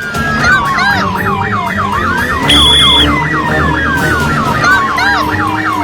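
Police siren sounding: a fast yelp warbling several times a second, overlaid with a slower wail that rises and falls, and a brief high beep about two and a half seconds in.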